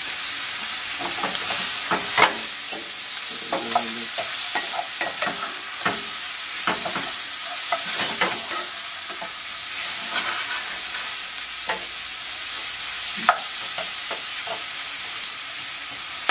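Sliced kielbasa and onions sizzling steadily in a frying pan, while a wooden spoon stirs and turns them with frequent scrapes and sharp taps against the pan, the loudest about two seconds in and near the end.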